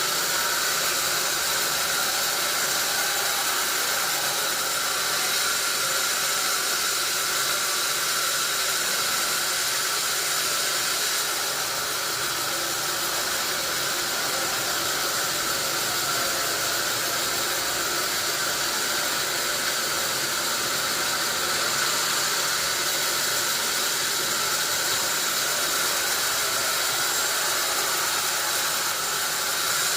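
Sawmill saw running steadily through wadang wood, an even whine and hiss with several steady high tones that hold at one level throughout.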